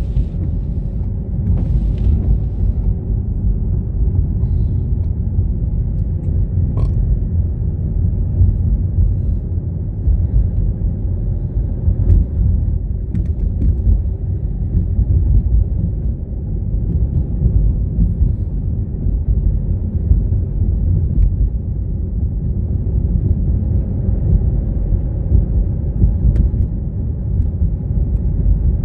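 Steady low rumble of a car driving, road and engine noise, with a few faint clicks now and then.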